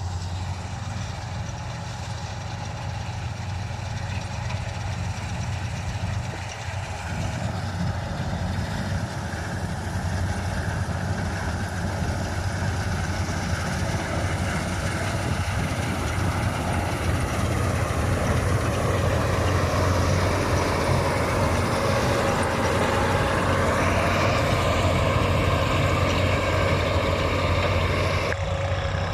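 Wheat combine harvester running, a steady engine drone with machinery noise that grows gradually louder.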